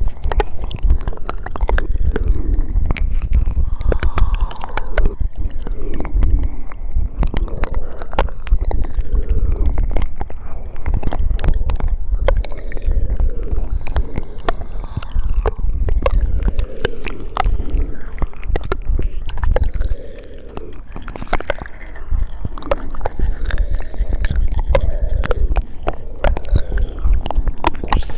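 Close-miked ASMR mouth sounds: dense, irregular wet clicks and smacks of lips and tongue, several a second, over a steady low rumble. They ease off briefly about two-thirds of the way through.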